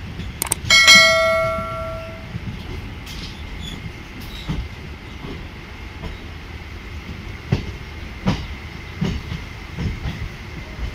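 Electric suburban train running on rails, heard from on board: a steady rumble with a faint high whine. About a second in, a loud metallic clang rings out and dies away over a second or so. In the second half the wheels click sharply over rail joints several times.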